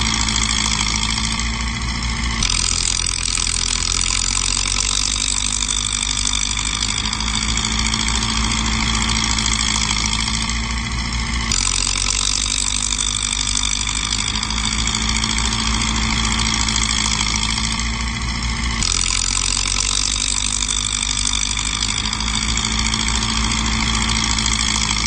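Heavy earthmoving machinery's diesel engine running steadily near idle. The engine note changes abruptly about two, eleven and nineteen seconds in.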